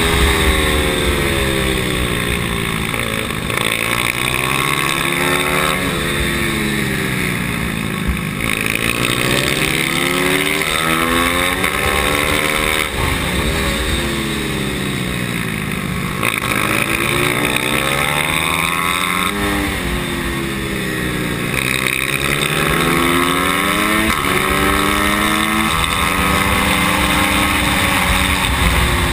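Pit bike's small single-cylinder engine heard from on board, revving up and falling back several times as it accelerates out of bends and shuts off into the next, with wind rumble on the camera.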